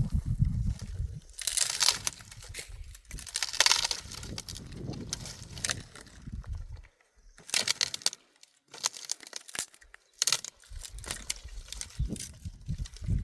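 Dry grass and brush crunching and crackling as it is gathered by hand, in irregular bursts, with a low rumble under the first half and short pauses about seven and eight and a half seconds in.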